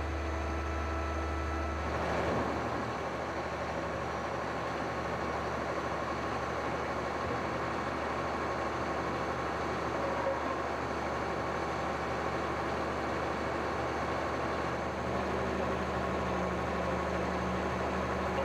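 Concrete boom pump truck's diesel engine running steadily while its hydraulic outrigger legs are worked. The sound grows fuller about two seconds in, and a deeper steady hum joins near the end.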